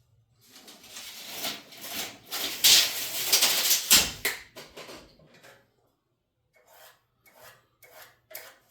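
Wood scraping: a long rough rub on wood for about five seconds, then five short separate scrapes.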